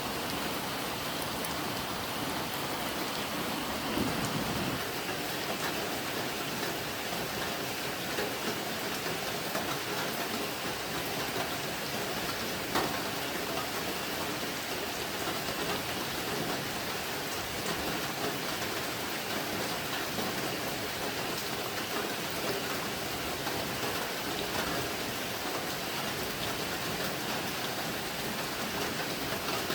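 Steady rain falling, an even hiss. A brief low thump comes about four seconds in and a sharp tick about thirteen seconds in.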